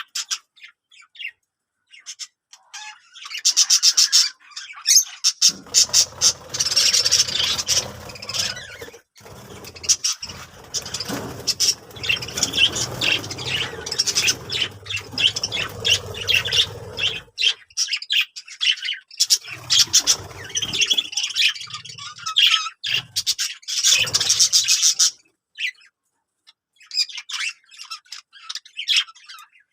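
Budgerigars chirping and chattering in rapid bursts, busiest through the middle, with a low noise underneath for much of that time.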